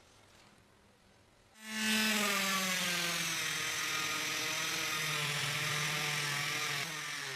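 A small power tool's motor starts about one and a half seconds in and runs steadily, its whine slowly dropping in pitch.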